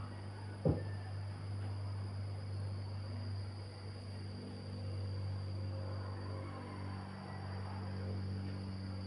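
Steady low hum with a faint, constant high-pitched tone above it, and one short knock a little under a second in.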